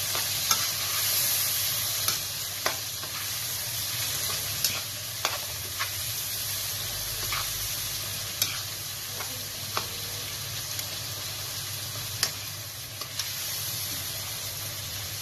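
Minced meat and ground spices sizzling in hot oil in a wok, with a steady hiss, while a spatula stirs the mince and scrapes the pan. Scattered sharp clicks come as the spatula knocks against the wok.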